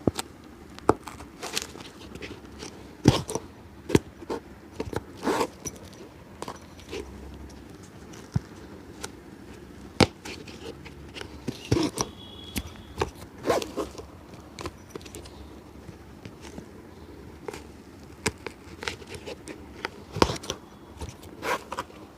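Irregular sharp taps, clicks and short scrapes from a cobbler's hand work on an old shoe, coming in uneven clusters with brief pauses between.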